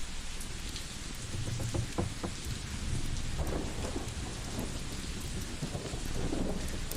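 Layered ambience: a steady rain-like hiss with scattered sharp crackles, over a low rumble that swells about a second in and again near the end.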